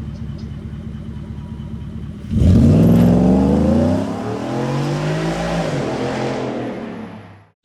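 Ford F-150's 5.0 V8 through an MBRP cat-back exhaust, idling, then accelerating hard about two seconds in with a sudden jump in loudness and a climbing engine note that eases and falls away. The sound cuts off abruptly near the end.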